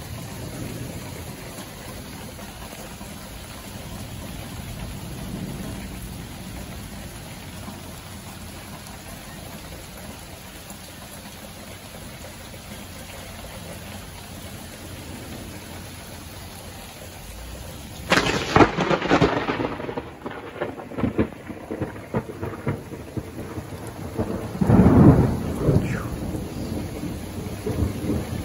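Steady rain hiss, then about two-thirds of the way in a sudden close thunderclap that crackles and rumbles on, with a second loud peal of thunder a few seconds later.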